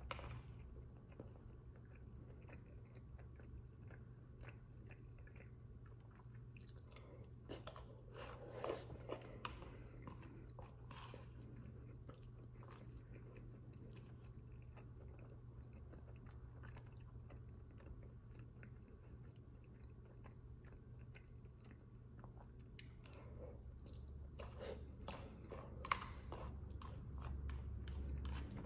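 Quiet chewing of a mouthful of soft chicken enchilada bake, with scattered small clicks and one sharper click near the end, over a low steady hum.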